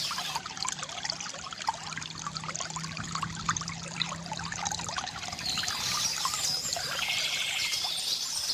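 Water trickling and gurgling from a bamboo fountain, a steady patter of small splashes. Birds chirp high above it near the start and again from about six seconds in.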